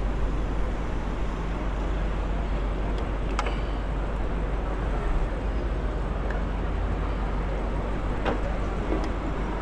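Steady rush of traffic and wind with a heavy low rumble, heard while riding a Citi Bike electric bike, with a few sharp clicks about three and eight seconds in.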